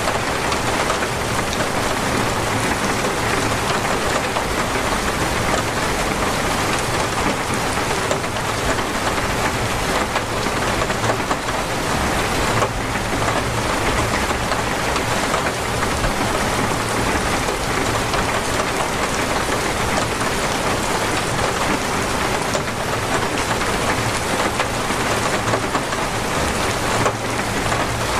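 Heavy, torrential rain falling steadily, a dense even hiss of rain on surfaces.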